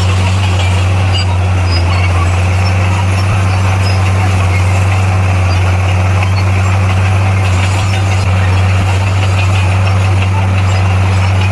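Diesel engine of heavy earthmoving equipment running steadily, a constant low drone with no change in speed.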